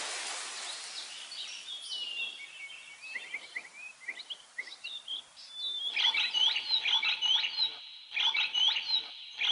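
Rain hiss fading away, then scattered bird chirps. From about six seconds in comes a louder rhythmic run of repeated chirps in short groups, with a brief break in between.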